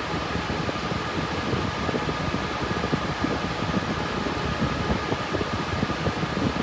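RTX 3060 Ti GPU mining rig's cooling fans running at a steady speed: a constant rush of air with a faint steady high tone.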